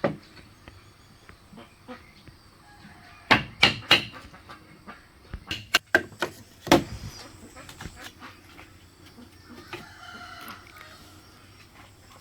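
Chickens clucking, with a rooster crowing faintly near the end. Several sharp knocks come in two short groups around the middle and are the loudest sounds.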